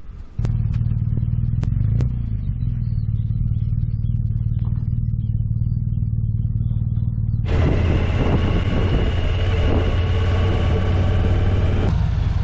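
Motorcycle engine running steadily. From about seven and a half seconds in, a loud rush of wind and road noise joins it, then falls away near the end.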